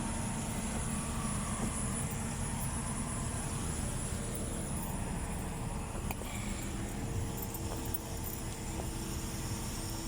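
Steady low machine rumble with a faint hum, broken by a small click about six seconds in.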